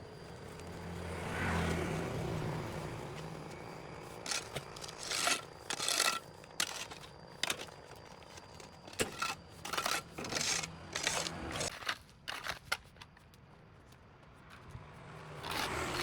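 Repeated short scraping strokes of a hand tool clearing dirt and grass off a concrete sidewalk, in uneven bursts. A vehicle passes about two seconds in.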